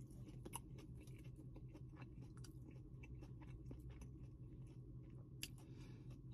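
Faint chewing of food, with scattered small crunchy clicks and a sharper crunch about five seconds in.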